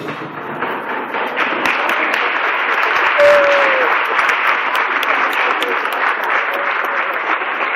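Audience applauding, swelling over the first second or so and then holding steady, with one short falling tone about three seconds in.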